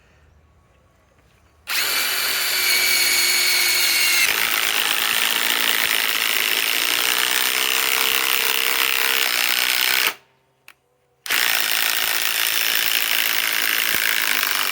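Ryobi PSBIW25 compact cordless impact wrench driving a long screw. The motor spins up with a steady whine, and a couple of seconds later the impact mechanism starts hammering. It stops briefly near the ten-second mark, then hammers again.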